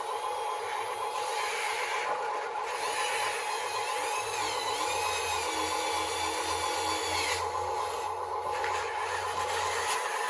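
Radio-controlled construction machine's small electric motors and gearing running with a steady, buzzy whine. Through the middle, a higher whine rises and falls in pitch as the machine is worked.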